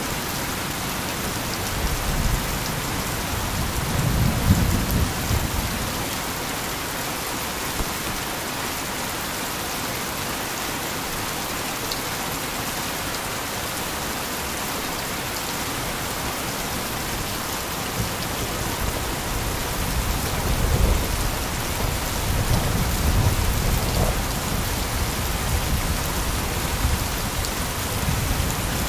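Heavy rain falling steadily, with low rolls of thunder rumbling about four seconds in and again through the second half.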